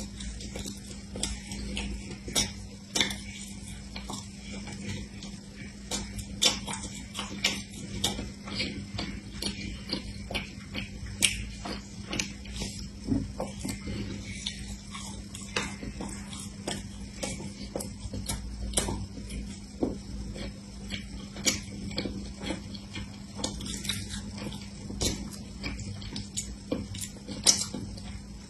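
Close-up mouth sounds of biting and chewing a crunchy sesame-coated fried pastry: frequent sharp crunches and crackles at an uneven pace, over a steady low hum.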